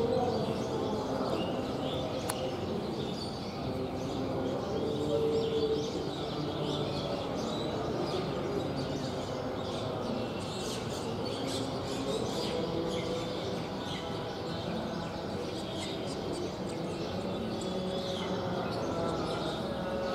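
Many small birds chirping and twittering in quick short calls, over a steady background din.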